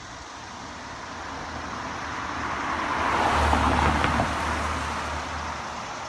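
A car driving past, its tyre and engine noise swelling to a peak a little past halfway and then fading away.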